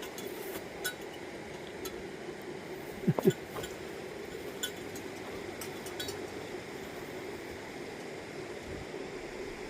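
Footsteps on a forest trail: light, irregular clicks and crunches about once a second over a steady rush of flowing water. There is one short, louder sound a little after three seconds in.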